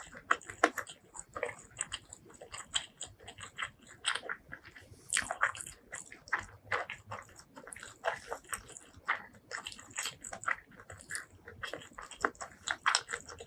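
Close-miked mouth eating sounds: biting and chewing food, heard as a rapid, irregular run of short clicks and smacks.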